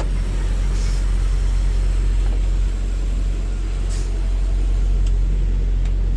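Steady low drone of a semi-truck's diesel engine and road noise, heard from inside the cab while driving, with a couple of faint clicks.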